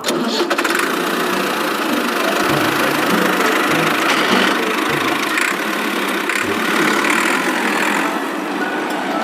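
A motor running steadily: a loud mechanical whirring noise with no clear pitch, broken by a few faint low thumps.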